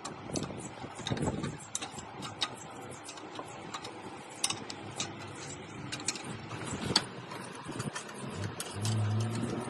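Irregular metallic clicks and knocks of hand tools working on motorcycle parts. A low steady engine hum comes in near the end.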